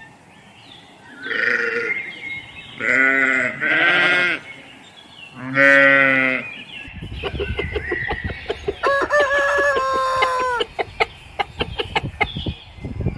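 Farm animals calling: four short bleats one after another, then a different clip with rapid clucking and a single held crow from a rooster that drops away at the end.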